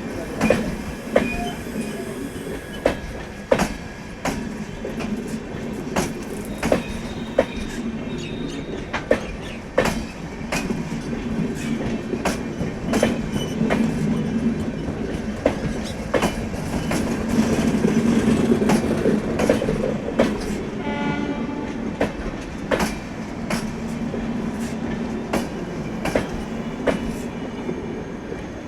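Garib Rath Express train rolling by, its wheels clattering over rail joints in a steady clickety-clack over a continuous rumble. The WAP-4 electric locomotive's twin-tone horn sounds near the start.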